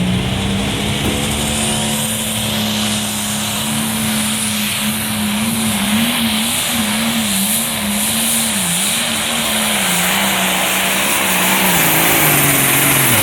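Pulling truck or tractor engine held at high revs under full load while dragging the weight sled. Its pitch wavers up and down in the middle of the run and drops near the end as the throttle comes off.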